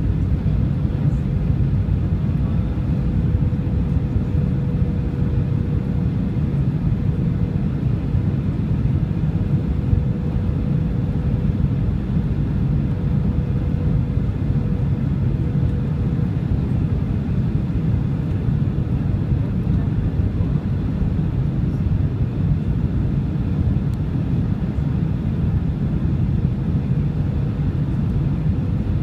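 Steady cabin noise of a Boeing 737-800 in flight: a constant low rumble of engines and rushing air, with a faint steady hum above it.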